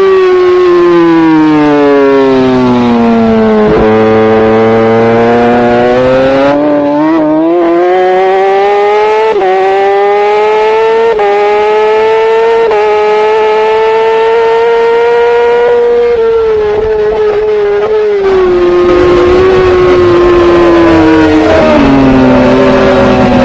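Racing superbike engine at full race pace: it winds down as the bike slows for a corner, then pulls hard up through several quick upshifts, holds steady, eases off for the next corner and picks up again near the end.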